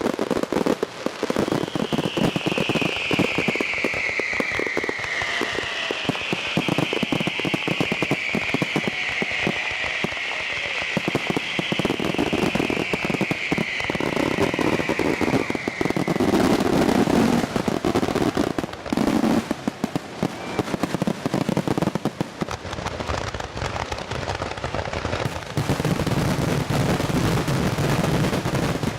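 A fireworks display: a dense run of crackling pops and bangs, with long whistles falling in pitch through the first half.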